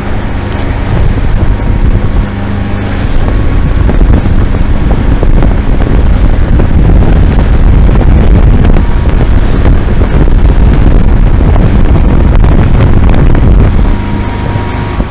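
Motorboat engine running under way at speed, mixed with heavy wind buffeting on the microphone. The sound stays loud and steady throughout, dipping slightly about two seconds in.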